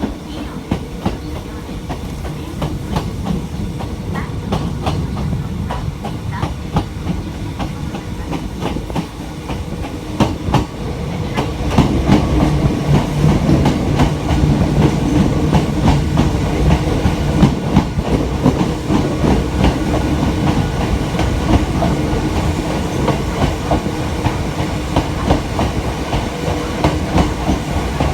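Hakone Tozan Railway electric train running on the mountain line, its wheels clicking over rail joints above a steady low rumble and hum. It grows louder about twelve seconds in.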